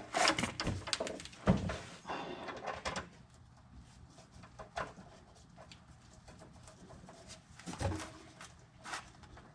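Scattered knocks and clatter of tools and parts being handled, busiest in the first three seconds, with a few single knocks later.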